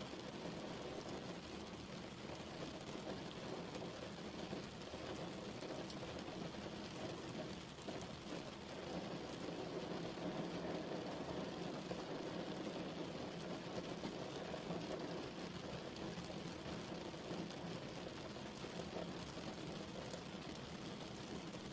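Steady rain falling, an even hiss of drops on surfaces with no thunder or voices.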